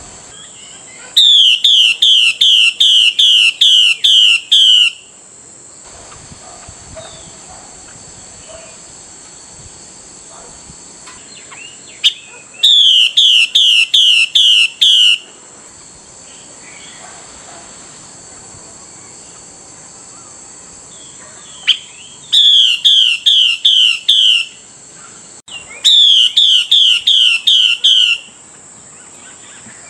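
Female Chinese hwamei (hwamei laughingthrush) calling in four bursts, each a quick run of seven to nine loud, repeated notes that sweep downward, with pauses of several seconds between bursts. This is the female's 'xùy' call that keepers play to rouse a male into singing.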